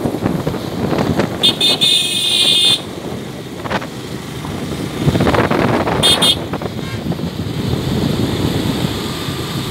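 Motorcycle running on the road with wind rush, while a vehicle horn sounds: one long beep about a second and a half in, then two short beeps around six seconds in.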